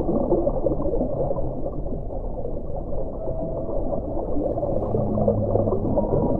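Muffled underwater ocean ambience, a dense bubbling rumble with steady low tones entering about five seconds in.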